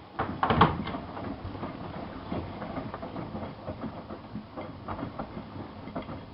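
Miele Softtronic W3657 front-loading washing machine in its wash phase: the drum turns with wet laundry tumbling and water sloshing in irregular thumps and splashes, loudest about half a second in, dying down at the end.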